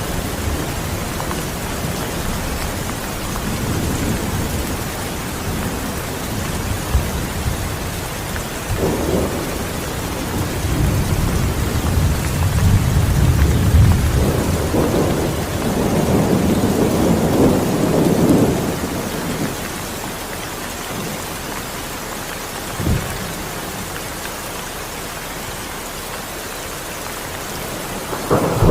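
Steady rain with rolling thunder. Low rumbles of thunder build and fade through the middle, a short sharp crack comes near the end, and another rumble begins as it closes.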